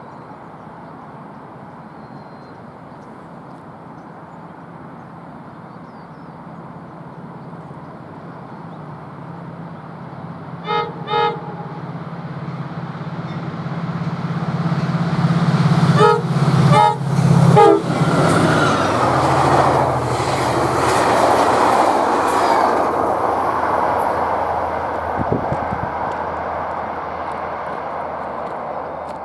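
A diesel-hauled train approaching and passing. The locomotive's engine drone grows steadily louder, with two short horn toots about a third of the way in and a string of horn blasts just past halfway. Then the engine note drops and the steady rumble of wheels on the rails fades away as the train goes by.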